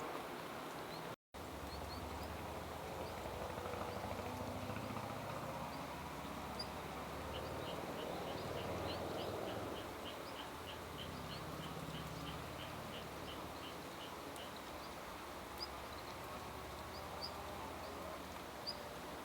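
Small birds calling outdoors: short high chirps scattered throughout, and in the middle a steady run of about three quick pips a second for some seven seconds, over a steady low background rumble. The sound cuts out briefly about a second in.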